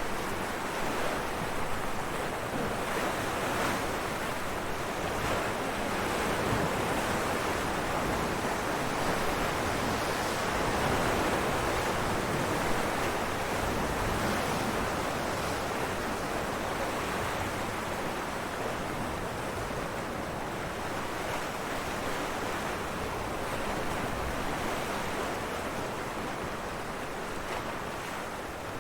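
Ocean surf breaking on rocks, a continuous rushing wash that swells and eases slowly.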